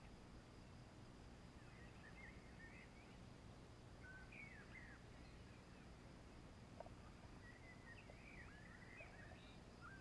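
Faint birdsong: short chirps and warbling phrases in scattered bouts over a low, steady background hiss, with one soft click about seven seconds in.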